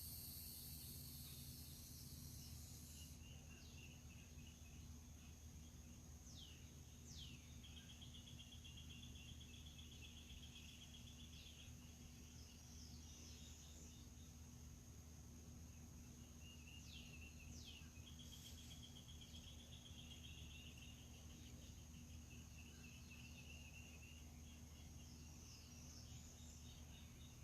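Faint outdoor dawn ambience: a steady high-pitched insect drone, with a louder insect buzz that stops about three seconds in. A bird sings the same phrase twice, about ten seconds apart: two quick down-slurred notes followed by a rapid trill lasting a few seconds.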